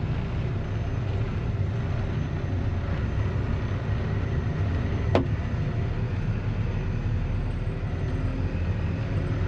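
Tractor diesel engine running steadily while the tractor creeps along a rough road at under 1 mph. A single sharp click or knock about halfway through.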